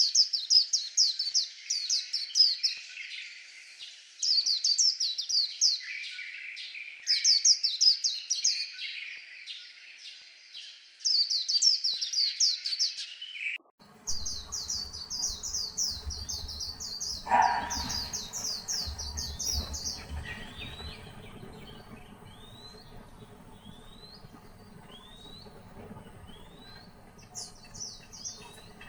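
White-eye (vành khuyên) singing: rapid, high twittering phrases a couple of seconds long, repeated every few seconds. About halfway through, a low hum comes in under the song, and after one more run of song the bird gives single short rising call notes about once a second.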